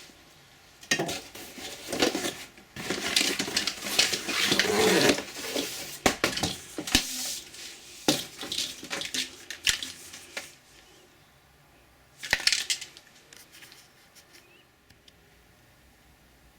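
Hard plastic vacuum cleaner parts and packaging being handled: irregular clattering and rustling with a few sharp clicks for about ten seconds, then one more short clatter.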